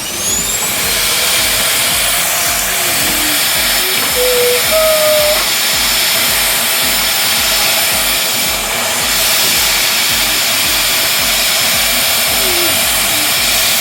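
Vacuum cleaner switched on, its motor whining up in pitch and then running steadily with a loud rushing hiss.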